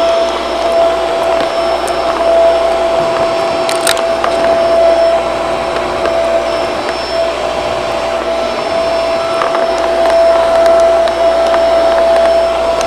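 Shark vacuum cleaner running steadily with a constant whine over the rush of air. A few sharp clicks of debris go through about four seconds in. Its suction is weak, which the uploader puts down to dirty filters.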